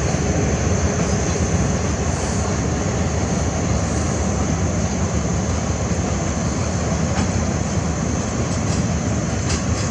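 Train running on the line: a steady, continuous rumble of the train and its wheels on the rails, with a thin steady high whine, holding level throughout.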